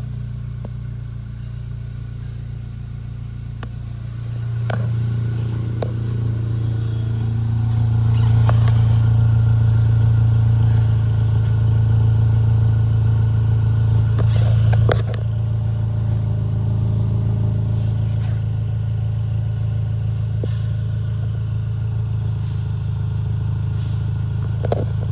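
Acura RSX's 2.0-litre four-cylinder engine running, heard through its aftermarket exhaust as a steady low drone. It grows louder from about four seconds in and steps back down about fifteen seconds in. A few brief clicks sound along the way.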